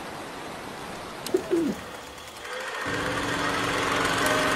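Two short bird notes over a soft hiss, then music fading in with a steady drone from about halfway through.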